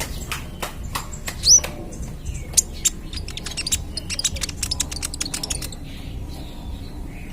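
Young kolibri ninja sunbird singing a fast string of sharp chipping notes, with one quick rising whistle about a second and a half in. The notes come thickest from about two and a half to six seconds in, then thin out, over a steady low hum.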